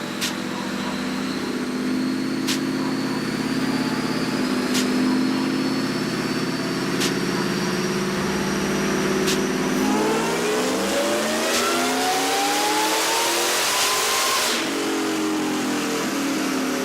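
Whipple-supercharged Ford SVT Lightning V8 on a chassis dyno, running steadily in gear with a faint high supercharger whine slowly rising. About ten seconds in it goes into a full-throttle pull, revs climbing for about four seconds until the throttle is lifted and the revs fall away.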